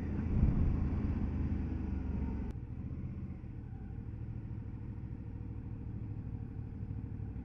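Motorcycle engine running at road speed with wind and road noise, heard from the rider's bike. About two and a half seconds in the sound suddenly drops to a quieter low rumble.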